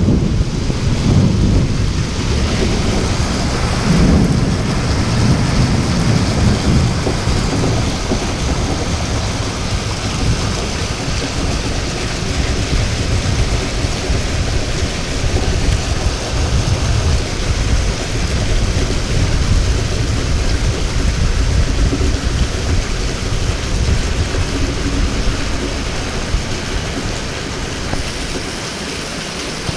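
Heavy rain pouring down in a thunderstorm, with a low rumble of thunder that is strongest in the first few seconds and eases off.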